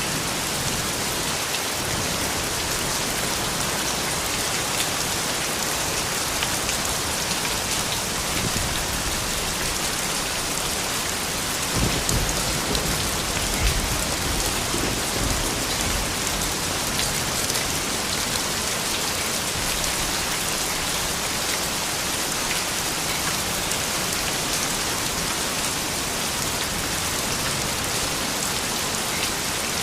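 Steady rain falling, a dense even patter of drops, with a low rumble of distant thunder about twelve seconds in.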